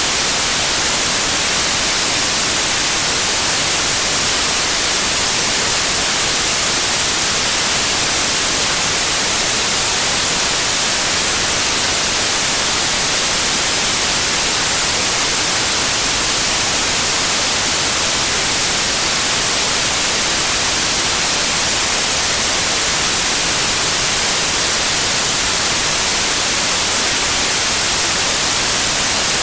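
Steady, unbroken synthetic noise signal, an even hiss that stays the same throughout and is heavier in the treble than the bass, so it sounds more like bright white-noise static than a deep pink noise.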